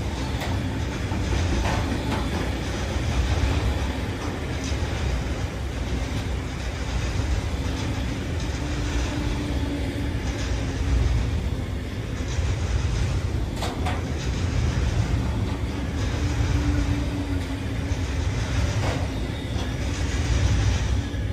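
A train running past on the track: a steady rumble of wheels on the rails, with a few sharp clicks.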